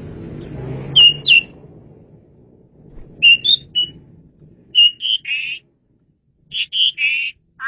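Male Javan pied starling (jalak suren) calling loudly: sharp whistled notes mixed with harsh, grating chatter in short phrases separated by brief pauses. A low rumble underneath fades out in the first two seconds.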